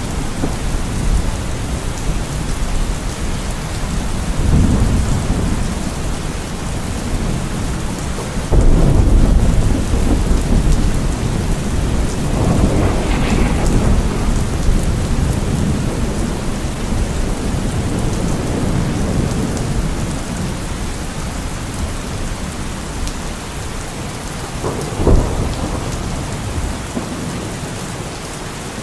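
Steady heavy rain with thunder rumbling through it: long low rolls swelling several times, the loudest about nine seconds in, and a short sharp clap near the end.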